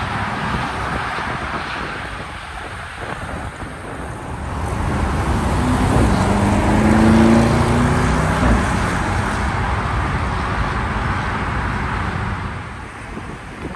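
A car driving past, its engine rising in pitch as it accelerates about halfway through, loudest around the middle before easing off.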